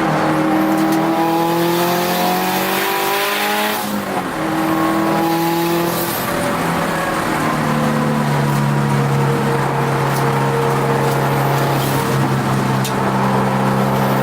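Turbocharged Subaru WRX STI flat-four engine under hard acceleration, heard from inside the car. The engine note climbs in pitch, drops at a gearshift about four seconds in, climbs again, then holds fairly steady.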